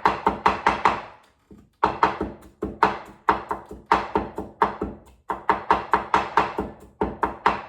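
A knife chopping quickly on a cutting board, in several fast bursts of about six strokes a second with brief pauses between them.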